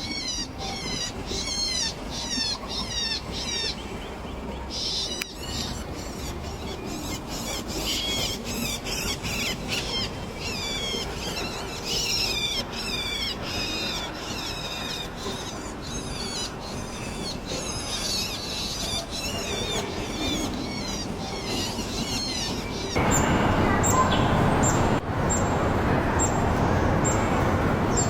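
Birds calling in a rapid series of short, high, downward-sliding chirps, a few a second, as nestlings do when begging to be fed. Near the end a louder steady hiss takes over, with faint high ticks about once a second.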